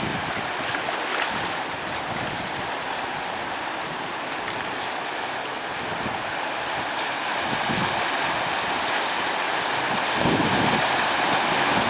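Sea surf washing on a sandy beach: a steady hiss of small breaking waves, with a wave surging in louder about ten seconds in.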